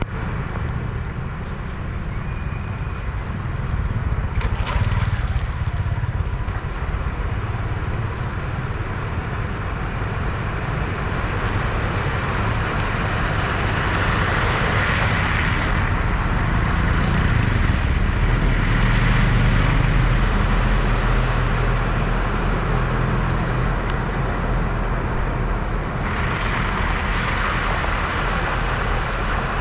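Vehicles driving through deep flood water at a ford: a steady low engine and road rumble, with a surge of water noise swelling up about halfway through and again near the end.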